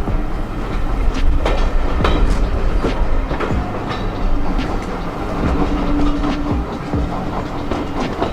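Heritage railway train running on the East Lancashire Railway, with a steady low rumble and irregular clicking and clattering of the wheels over the track.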